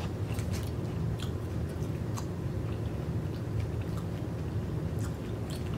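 Close-miked chewing of oysters, a person's mouth working steadily with scattered small wet clicks and smacks.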